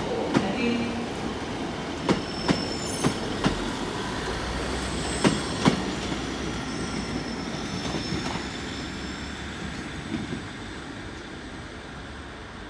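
Train moving slowly through the station, its wheels clacking over rail joints in pairs, about seven clacks in the first six seconds, with a high thin wheel squeal. The rumble fades gradually toward the end.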